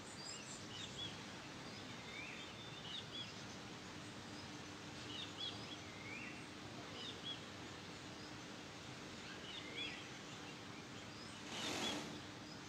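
Small birds chirping in short repeated calls every second or two over a steady background hiss, with a brief burst of hiss near the end.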